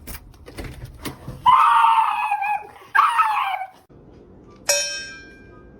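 Two long, high-pitched screaming cries from an animal, each falling in pitch at the end, the second shorter. Near the end comes a sudden ringing chime that fades away.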